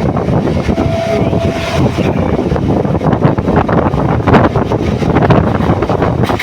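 Moving train's running noise, a loud rumble with rapid rattling and wind buffeting the microphone. A brief steady tone sounds for about a second, starting about a second in.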